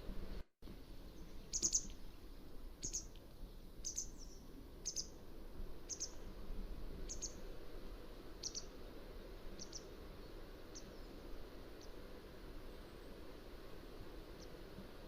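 Mountain wagtail calling: a series of short, sharp, high notes about once a second, growing fainter towards the end, over a steady low background hiss. The sound drops out for a moment just before the calls begin.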